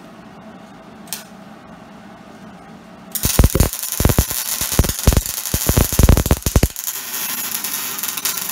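A gas-shielded MIG welder's arc crackles irregularly for about six seconds, starting about three seconds in after a single click. The welder takes the uneven arc to mean the wire feed speed is a little off.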